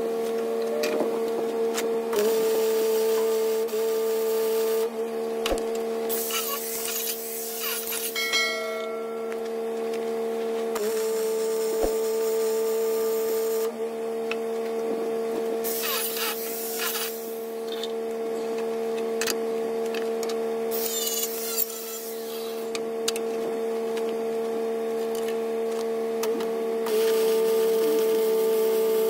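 A steady, bell-like droning tone held at one pitch throughout, laid over the footage as background music. Under it, stretches of hissing and scraping metalwork noise from the bucket repair start and stop abruptly.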